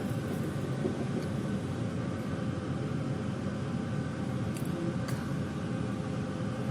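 Steady running rumble of a passenger train heard from inside the carriage, with two faint clicks about two-thirds of the way through.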